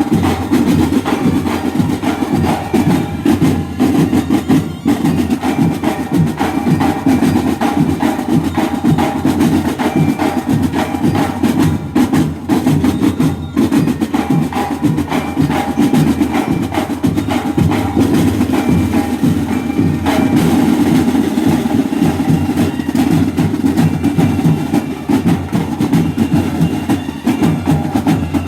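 Banda de guerra drum section playing a continuous marching cadence on snare and bass drums, with snare rolls. Brief held tones are heard on top now and then.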